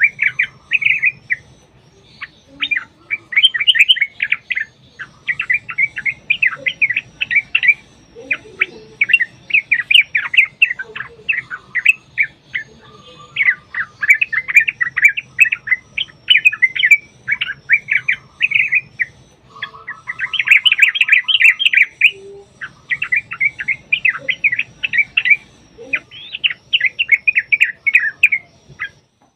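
Yellow-vented bulbuls (trucukan) singing in long, fast chattering phrases of bubbly notes, one after another with only brief pauses. This is the long rapid 'ropel' song used as a lure to set other bulbuls singing.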